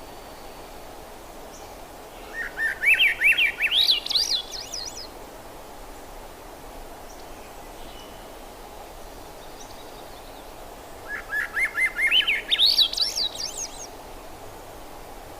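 Thrush (zorzal) singing two phrases about nine seconds apart, each a quick run of short notes climbing steadily in pitch, over a steady background hiss.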